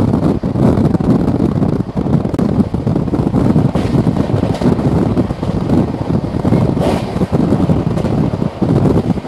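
Wind rush and wheels running on the rails of an express passenger coach at about 125 to 130 km/h, heard at an open door or window, with wind buffeting the microphone. A few brief sharper clacks come about halfway through.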